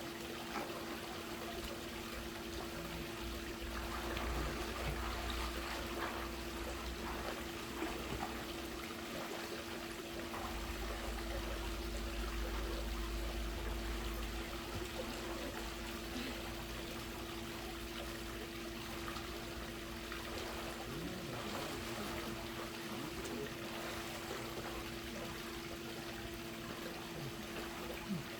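Swimming-pool water trickling and lapping, with a steady low hum beneath it.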